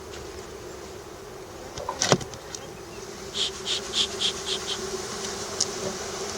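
Honeybees from an opened hive buzzing in a steady hum. A sharp knock comes about two seconds in, then a quick run of about seven short scratchy sounds, a few a second, a little past three seconds in.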